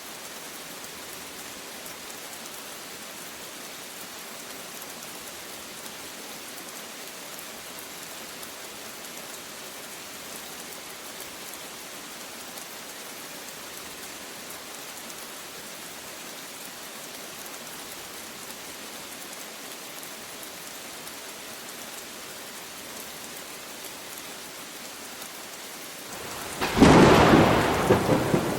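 Steady rainfall. Near the end comes a sudden loud thunderclap that begins to fade.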